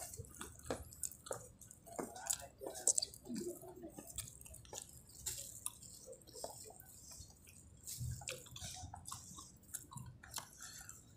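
Close-up eating sounds of rice and curried dishes eaten by hand: wet chewing with many short, irregular mouth clicks and smacks.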